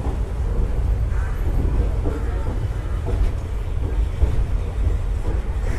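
Moving passenger train heard from aboard a coach: a steady low rumble of the wheels and running gear on the track.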